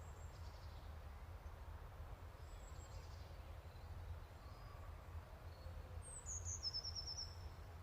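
Faint bird calls over a steady low rumble. About six seconds in, a bird gives a quick run of about six high notes stepping down in pitch.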